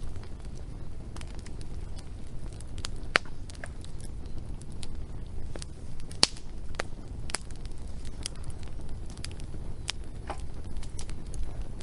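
Wood fire burning and crackling, with irregular sharp pops and snaps over a steady low rumble.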